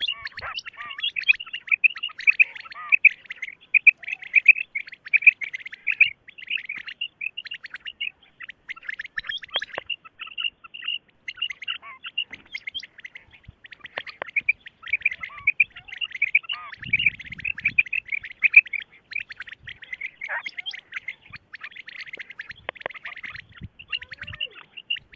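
Many birds chirping in a dense, continuous chorus of short, high notes, with no break.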